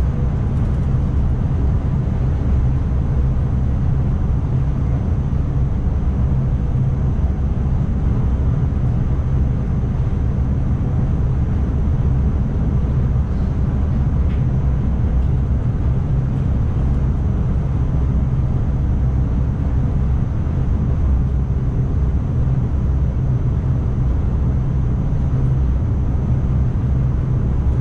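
Driver's cab of an ICMm electric multiple unit (Koploper) running at speed: a steady low rumble of wheels on the track, with a faint steady high whine.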